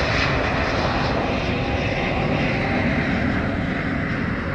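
Airbus A350-900's Rolls-Royce Trent XWB turbofan engines at takeoff power: a steady, dense jet roar with a deep rumble, slowly fading as the airliner departs.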